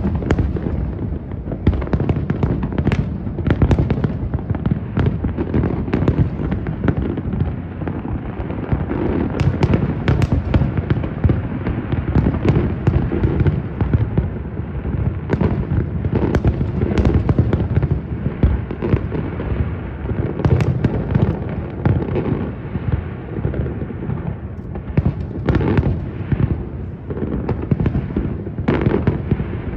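Fireworks show going off in rapid, continuous succession: a dense rolling rumble of booming shell bursts, with sharp crackling reports on top of it and no pause between them.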